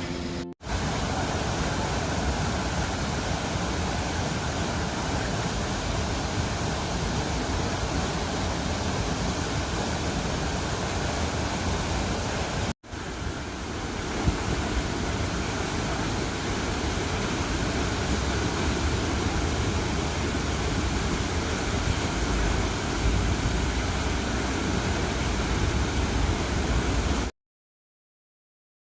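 Steady rush of falling water, like a waterfall, with brief cut-outs about half a second in and near the middle, stopping abruptly just before the end.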